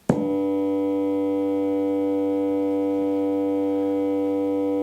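A steady electronic test tone from an iPad tone-generator app, played through a small 10-watt amplifier and speaker, begins with a click as the amp is switched on. It then holds one unchanging pitch, rich in overtones, at a constant level.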